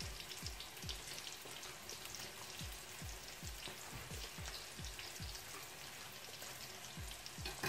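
Eggplant and minced-meat omelette (tortang talong) frying in oil in a nonstick pan: a steady sizzle with scattered small crackles.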